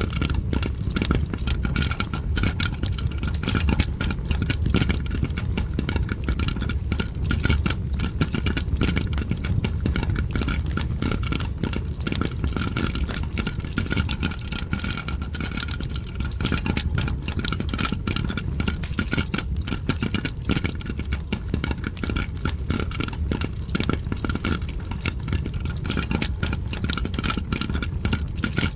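Popcorn popping mixed with a crackling fireplace: a dense, continuous stream of small pops and crackles over a steady low rumble.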